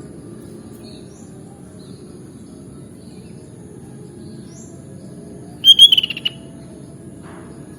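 Sooty-headed bulbul giving one loud, short burst of quick call notes about six seconds in. Faint, higher, rising chirps come and go over a steady low background rumble and a thin high hiss.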